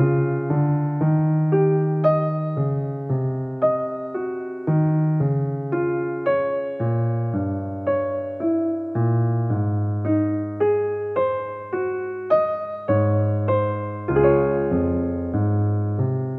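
Piano music, most likely an electric piano: a moderate melody over chords and low bass notes, the notes struck about twice a second and each fading away.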